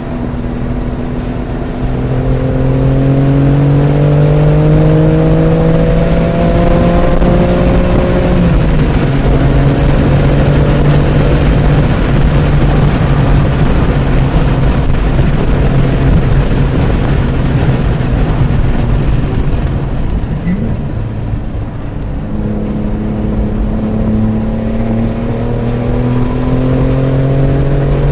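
BMW M3 Competition's twin-turbo straight-six pulling hard under full throttle, its pitch climbing through the revs, then dropping sharply about eight seconds in, with heavy wind and tyre noise. Near the end it climbs again under another pull.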